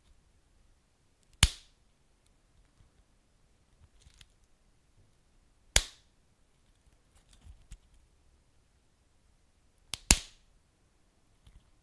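Wood fire crackling, with three loud sharp pops from burning logs about a second and a half, six and ten seconds in, the last one a quick double pop, and small faint crackles between them.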